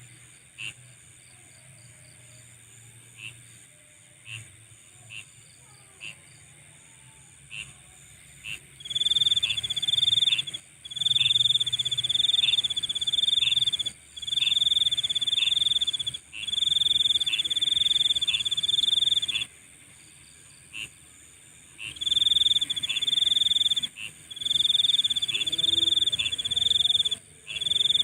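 Night insect chorus: a steady high buzz under a loud, shrill trilling insect. The trilling insect gives scattered short chirps at first, then from about nine seconds in sings long trills of a second or two, broken by short pauses.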